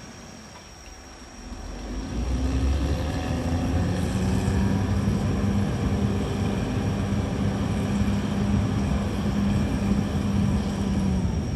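Diesel engine of a CAT D6R XL bulldozer, quieter at first, then rising about two seconds in to a loud, steady drone under load that eases off near the end.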